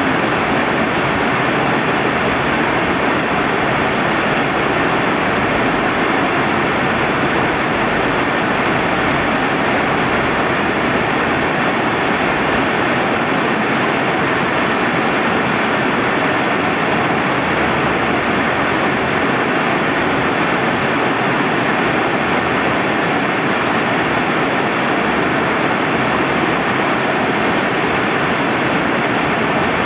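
Steady rain falling beside a flowing river: an even, unbroken hiss.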